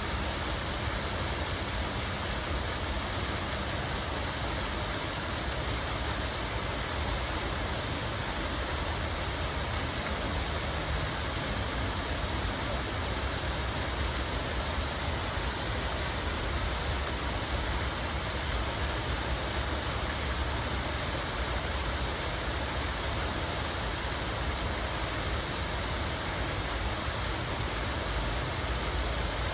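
Running water: a steady, even rush with no breaks and a low rumble underneath.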